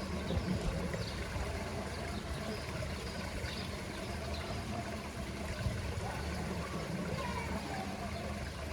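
Pool water trickling and running steadily, with a low rumble underneath.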